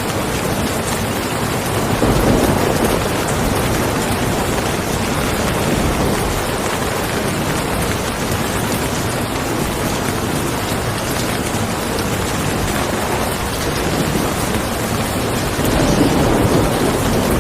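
Steady, dense rain. Two brief, low swells in loudness come about two seconds in and again near the end.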